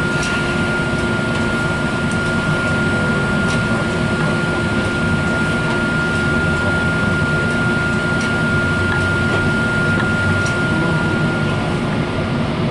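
Passenger train cabin noise while running: a steady rumble and hiss, with a thin steady whine that cuts off near the end.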